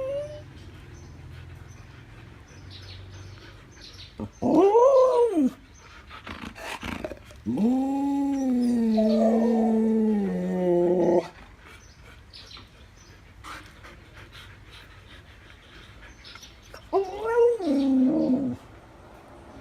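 Siberian husky 'talking': three drawn-out howl-like calls, a short one that rises and falls, then a long held one of about four seconds, and another short falling one near the end, with a few light clicks between.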